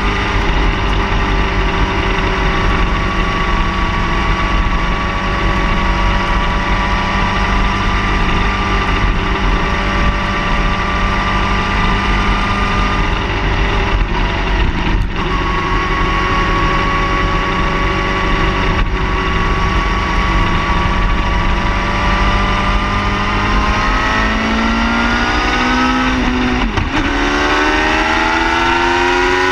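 Car engine running at a steady pitch, then rising in pitch near the end as it accelerates, with a brief drop and a climb again like a gear change.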